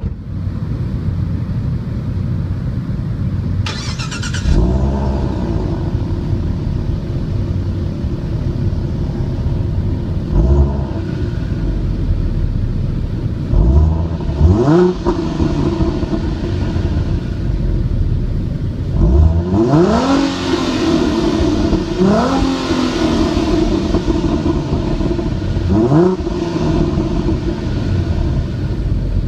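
A 2014 Ford Mustang's 3.7-litre V6 idles through its exhaust and is blipped about six times. Each rev rises quickly and then drops back to a steady idle.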